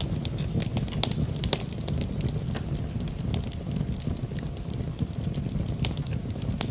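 Wood fire in a fireplace crackling: a steady low rumble of flames with frequent sharp pops and snaps of burning wood.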